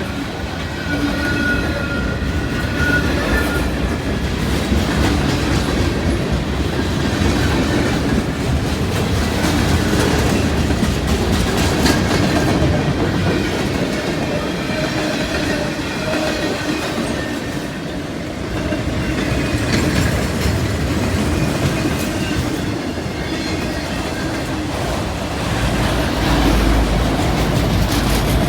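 CSX freight train rolling past steadily, its steel wheels clacking over the rail joints, with a thin wheel squeal in the first few seconds.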